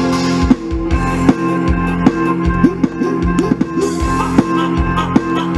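Instrumental passage of mor lam sing band music: a steady drum-kit beat under bass and held melody notes that bend in pitch.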